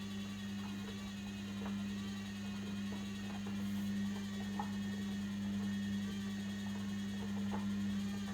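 Logik L712WM23 washing machine giving a steady low electrical hum, with a few faint knocks, that cuts off abruptly near the end.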